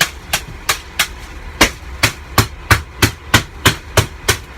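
A fast, slightly uneven series of sharp clicks or taps, about three a second, over a low steady hum.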